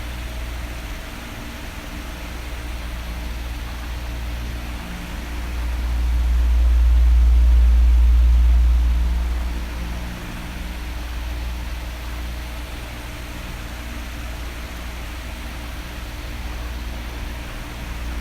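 Electric fan running steadily: an even rush of air with a low motor hum. The deep airflow rumble swells louder about six seconds in, falls back about four seconds later and rises again near the end, as an oscillating fan sweeps toward and away from the microphone.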